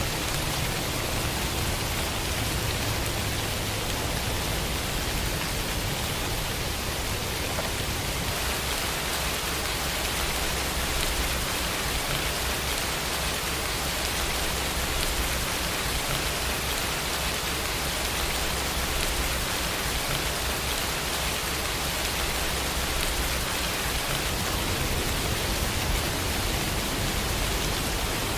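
Steady rain falling, an even hiss of drops with a low rumble underneath and no single distinct sound standing out.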